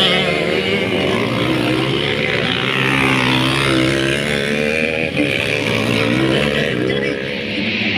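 Several motocross motorcycle engines racing together, their pitch rising and falling over and over as the riders work the throttles.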